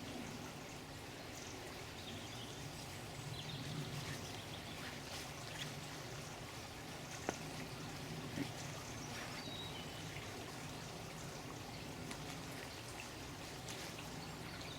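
Running water trickling and pouring steadily, with faint bird chirps now and then and two short clicks around the middle.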